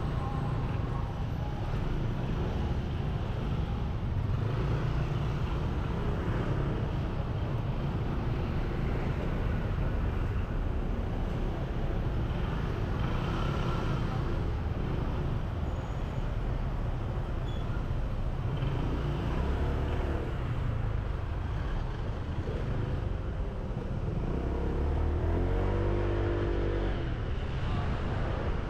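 Riding on a motorbike: the engine running under a steady low rumble of wind on the camera's microphone, with road traffic around. Near the end a vehicle's engine note briefly stands out.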